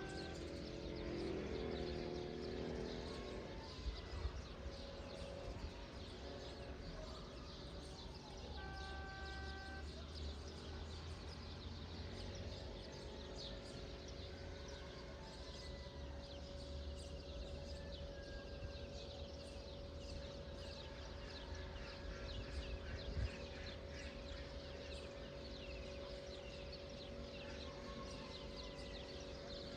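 Outdoor morning ambience: many small birds chirping continuously over a low rumble. There is a brief pitched call near the start and another about nine seconds in, and a steady low hum joins about a third of the way through.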